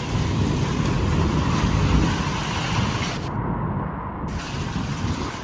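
Severe thunderstorm winds gusting hard: a steady rushing hiss over a heavy, shifting low rumble of wind buffeting the microphone.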